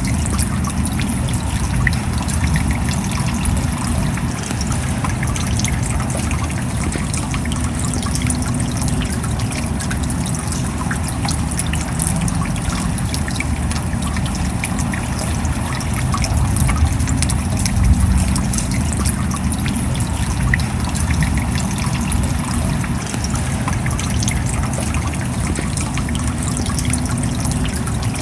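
Steady rain falling: a dense, even spread of small drop impacts over a low rumble, with water trickling.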